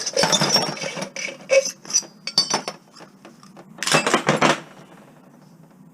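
Small pieces of scrap metal clattering and clinking as they are handled and dropped: a burst at the start, scattered clinks, then another burst about four seconds in.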